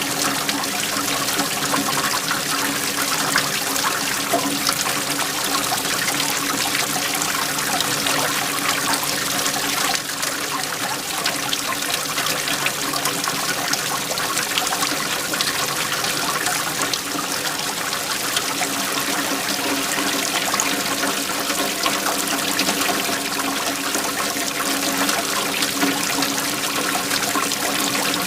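Waterfall: water flowing and splashing in a steady, unbroken rush.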